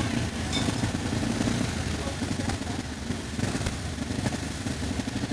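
Vintage racing car engine running steadily, with people's voices.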